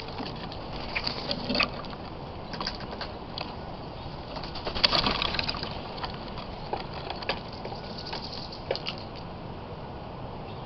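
Birds moving about: scattered short clicks and taps over a steady hiss, with a louder flurry about five seconds in.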